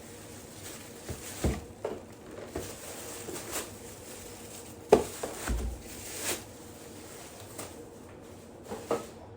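Groceries being unpacked: plastic shopping bags rustling and items set down with a few knocks on a hard surface, the loudest about five seconds in.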